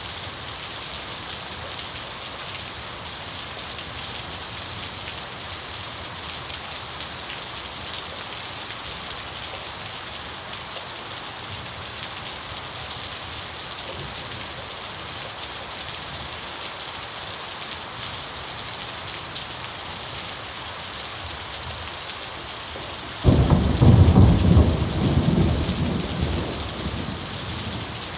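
Steady rain falling. Near the end, thunder breaks suddenly, loud and low, and rumbles away over about four seconds.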